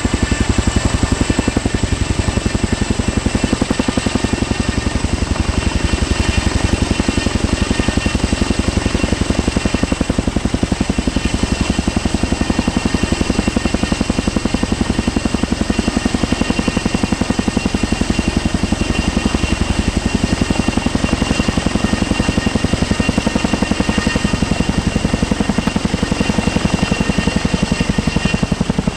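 Military helicopter running loud and steady: a rapid, even beat of rotor blades with a high turbine whine over it.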